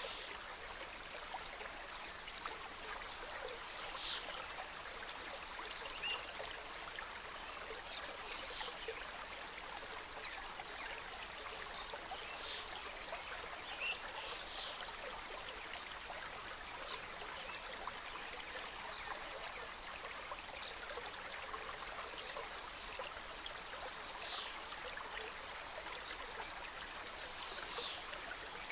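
Mountain stream flowing steadily over rocks, a continuous rush and babble of water. Short high-pitched sounds stand out above the water now and then.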